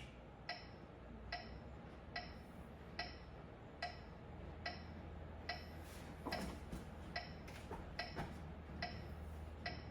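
Faint metronome ticking at an even beat, about one tick every 0.8 seconds.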